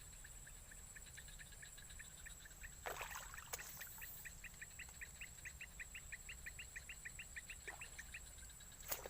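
Faint outdoor ambience: a steady high insect drone, with a bird giving a long run of short, evenly spaced chirps, about four or five a second. Two brief swishes come about three seconds in and again near the end.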